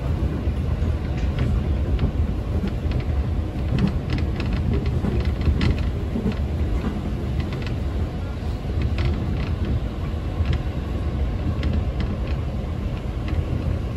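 Local electric train running, heard from inside the car: a steady low rumble of wheels on the rails, with scattered clicks and knocks.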